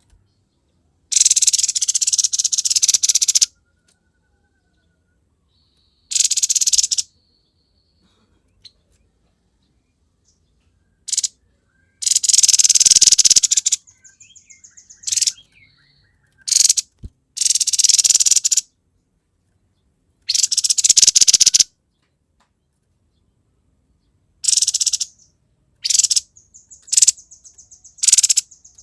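Grey-headed babbler (tepus kepala abu) singing in its harsh 'konslet' style: loud, rasping chatter in bursts of one to two seconds separated by pauses, with quieter fast ticking trills between some bursts.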